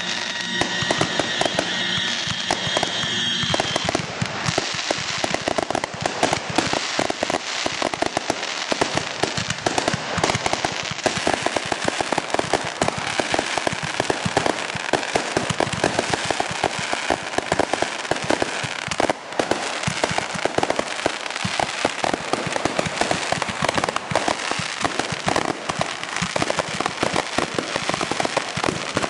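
Consumer fireworks going off in a long, dense run of rapid sharp pops and crackles. For the first few seconds a steady high whistle sounds over them.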